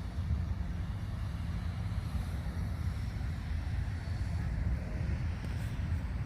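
Steady low rumbling outdoor ambience with no distinct events.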